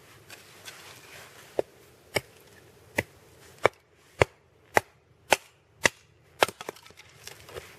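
Chopping strokes splitting a dry log into kindling: about nine sharp cracks, roughly two a second, starting about a second and a half in.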